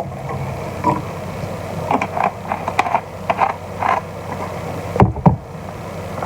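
Kitchen handling sounds as vinegar goes into a sauce pot: a run of short clicks and knocks, then two loud thumps about five seconds in, over a steady low hum.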